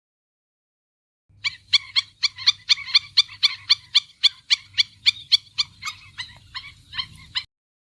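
An animal calling in a rapid, even series of short, sharp, high-pitched calls, about three a second, for some six seconds before stopping abruptly.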